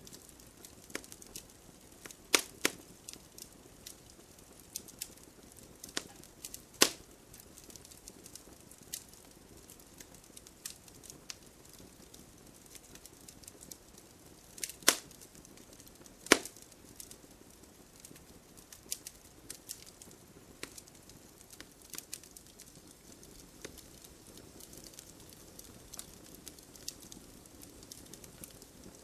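Wood fire burning in a fireplace: a soft steady hiss of flames with scattered crackles and sharp pops at irregular intervals, a few loud snaps standing out about 2, 7, 15 and 16 seconds in.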